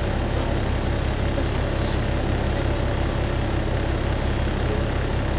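Diesel railcar engine running steadily with an even low throb, heard from inside the passenger cabin.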